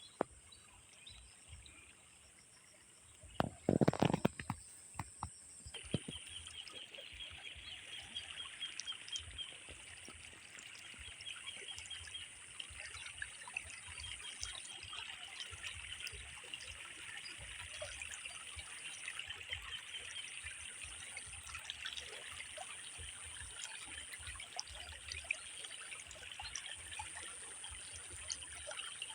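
Water trickling steadily in a dense patter of small ticks, with a brief louder noise about four seconds in.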